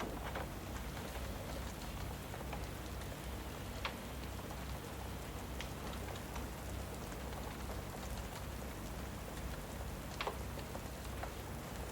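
Steady rain ambience with a fireplace crackling in it: a constant hiss of rain under a low rumble, broken by a few sharp pops, the clearest about 4 seconds in and again near the end.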